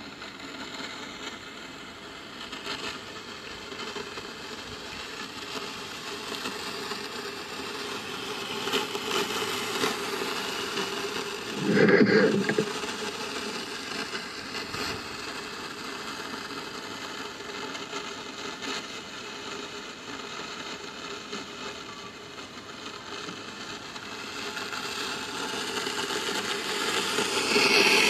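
Noise picked up by a microphone in a borehole 18 m underground: a steady rumbling haze with faint scraping and rattling, one brief louder sound about twelve seconds in, and the noise swelling near the end. The recorders take such sounds for digging work underground; the defence ministry says they are wind.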